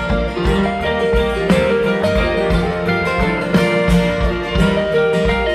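Live band playing an instrumental passage of a folk-rock song, guitar to the fore over bass, with a steady beat.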